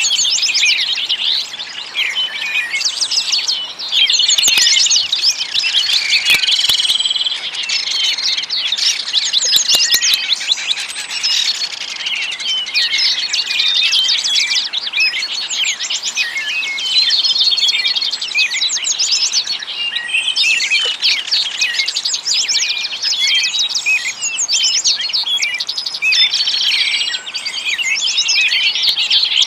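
A dense chorus of small songbirds chirping and twittering without a break, with many quick high calls overlapping one another.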